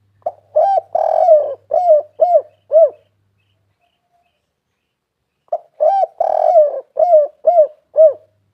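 Spotted dove cooing: two phrases about five seconds apart, each a run of short arched coos around one longer, drawn-out coo.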